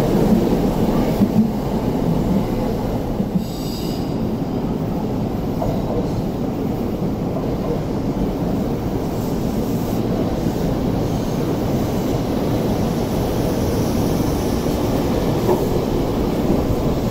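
Electric commuter trains at a station platform: a Tokyo Metro 7000 series train runs past close by, then a Seibu 2000 series train rolls slowly in on the far track. The wheels on the rails make a steady rumble, with faint wheel squeal at times.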